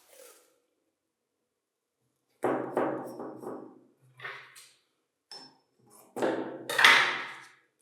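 A series of hammer blows on metal, each struck with a sharp onset and a short ringing decay, in quick groups of three or four after a quiet start, the loudest near the end.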